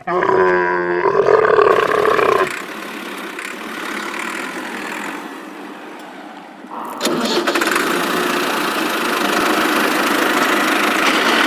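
Camel calling: a pitched, pulsing vocal sound for about two and a half seconds, then a rough rumbling that grows louder again about seven seconds in.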